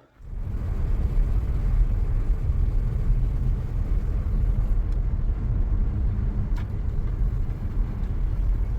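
Car driving on the road, heard from inside the cabin: a steady low rumble of engine and road noise.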